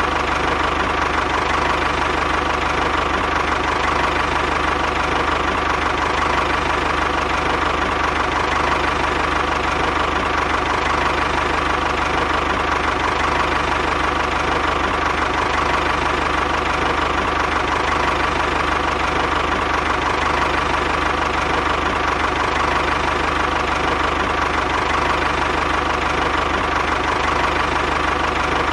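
A small motor running steadily at a constant speed, with an even whine that does not change.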